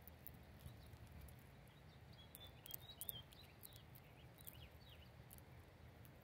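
Faint, short bird chirps, a quick cluster of them between about two and five seconds in, over quiet background with scattered small clicks.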